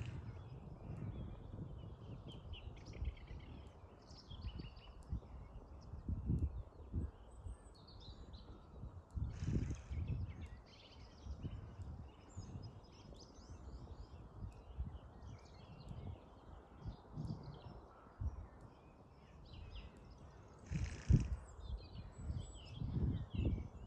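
Small birds chirping and twittering in a dawn chorus over gusty wind rumbling on the microphone. Two louder, noisier sounds stand out, one about ten seconds in and another near the end.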